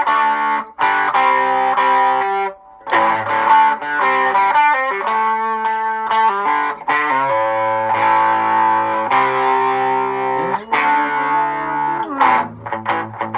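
Electric guitar through effects playing a chugging rock riff in A, in standard tuning, bouncing between A, D and C chord shapes, with a slide up into a chord a little after ten seconds in.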